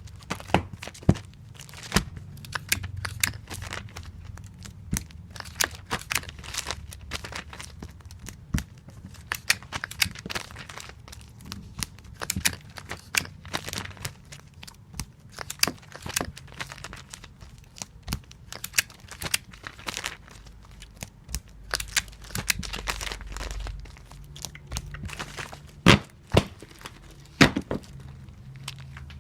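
Tape being pulled from a tape dispenser and torn off on its cutter again and again while comic books are taped, with crinkling and many quick clicks and snaps; the sharpest snaps come near the end.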